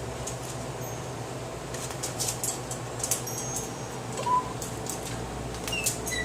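Pet bird making the odd noises its owner calls weird: a series of soft high clicks with a few short, thin chirps, over a steady low hum.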